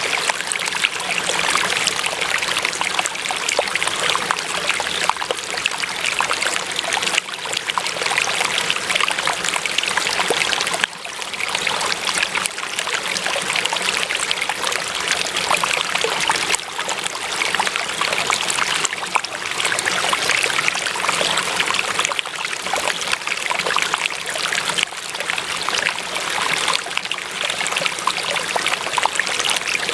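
Flowing water trickling and splashing steadily, like a small stream running over stones.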